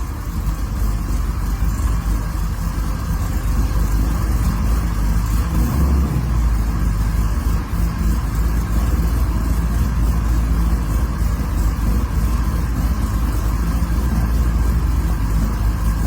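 A 502 cubic-inch big-block Chevy V8 in a 1979 Chevrolet Malibu running loud and steady, its sound heavy in the low end.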